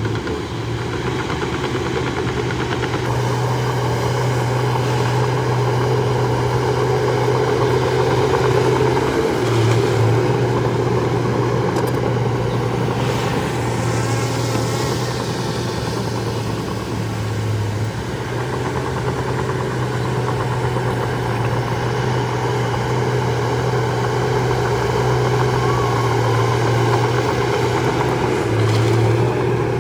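Heavy diesel engine of a Shantui DH17C2 bulldozer running steadily, its pitch dipping briefly three times as the load comes on. A fainter high whine falls in pitch about halfway through.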